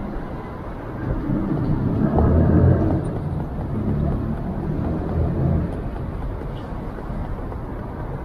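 Low rumble of a passing road vehicle, swelling about a second in, loudest around two to three seconds, and easing off after about five and a half seconds.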